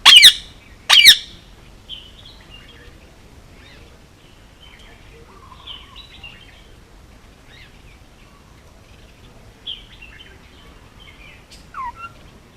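Male Indian ringneck parakeet giving two loud, shrill screeches in quick succession, each falling in pitch, in the first second and a half. Soft scattered chirps and twitters follow, with a short falling whistle near the end.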